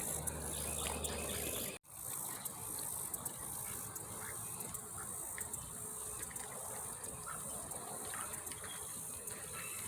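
Steady high-pitched chirring of crickets, with a few faint small ticks. It drops out briefly about two seconds in, then carries on unchanged.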